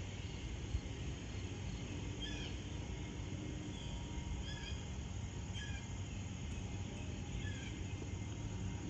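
A small songbird chirping, short high calls repeated about once a second, over a steady low rumble.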